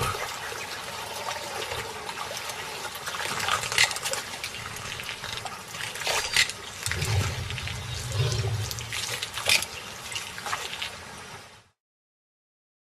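River water splashing and churning as animals thrash in the water at a crossing, with several sharp splashes. The sound cuts off abruptly near the end.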